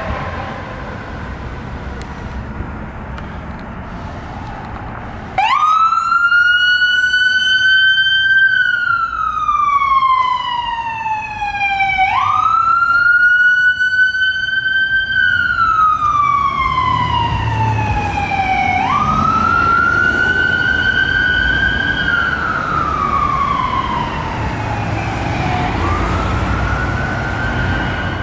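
Fire truck siren wailing, starting abruptly about five seconds in and repeating about four times, each cycle rising quickly and then sliding slowly down in pitch. Under it run the low rumble of the truck's engine and road noise, and a fainter falling siren tone fades away at the start.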